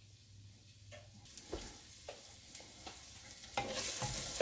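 Onions frying in oil in a stovetop crock, with a few light knocks against the pot; about three and a half seconds in the sizzle becomes much louder and keeps going.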